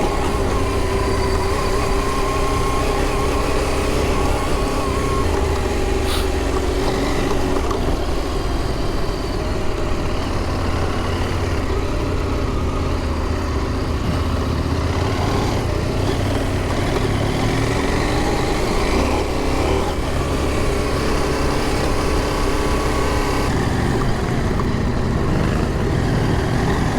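Adventure motorcycle engine running as the bike is ridden along an off-road trail, its pitch rising and falling with the throttle over a steady low rumble.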